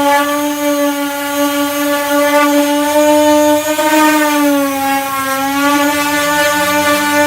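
Power sander with a 240-grit disc running on body filler: a steady motor whine whose pitch wavers slightly around the middle.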